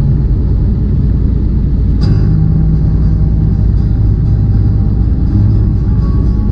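Semi truck's diesel engine and tyre noise from inside the cab while cruising on the highway: a loud, steady low rumble with an engine hum, and a faint tick about two seconds in.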